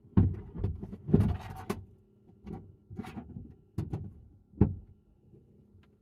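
Gear being handled and set down: a series of knocks and thumps with a short stretch of scraping and rustling about a second in, the loudest thump a little past halfway. A steady low hum runs underneath.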